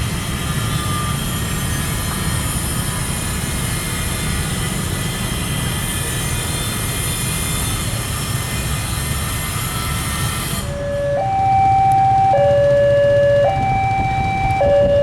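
A passing train's loud running noise with many steady whining tones from the wheels, for about ten seconds. It cuts off abruptly and is followed by a loud two-tone signal, alternating between a lower and a higher pitch about every second.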